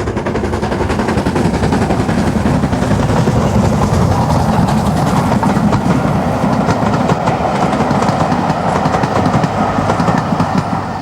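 LMS Stanier Black Five two-cylinder 4-6-0 steam locomotive passing with its train: a rapid run of exhaust beats and wheels clattering on the rails. It builds over the first second or two, then holds steady and loud.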